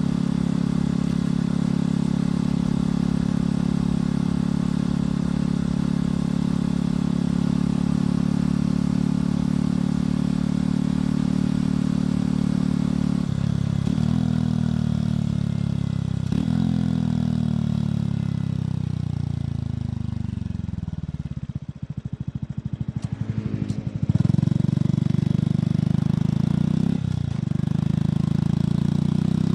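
Motorcycle engine and exhaust at a steady cruise, then slowing as the engine's pitch falls in steps with downshifts. It drops to a slow, lumpy idle a few seconds later. About three-quarters through it pulls away hard, the pitch climbing through gear changes.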